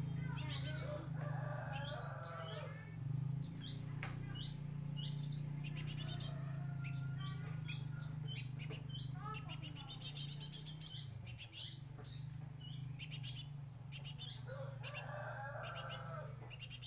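Pet bird chirping over and over: quick trains of very high chirps alternating with short falling notes, over a steady low hum.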